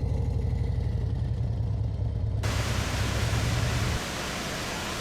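Harley-Davidson Road Glide's V-twin engine running at low revs with a deep, pulsing rumble. About halfway through, the steady rushing of a waterfall cuts in, and the engine falls away about a second and a half later.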